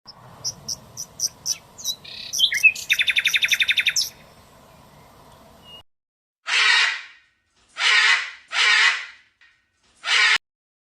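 A songbird chirping in short high notes, then a fast trill for about two seconds. After a cut come four short harsh, hiss-like bursts.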